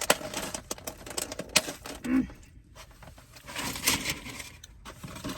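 Scattered light clicks and taps, with a brief soft rustle a little past halfway.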